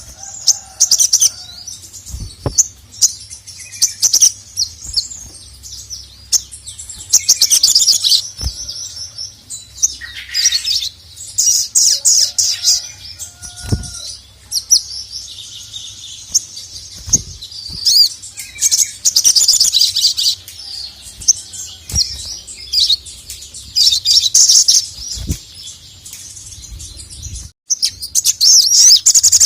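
Ruby-cheeked sunbird (sogok ontong) singing in bursts of rapid, high chattering chirps, with a few sharp knocks in between.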